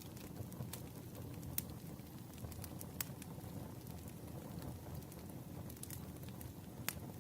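Campfire crackling: a steady low rustle of burning wood with scattered sharp pops. The clearest pops come about a second and a half in, three seconds in, and near the end.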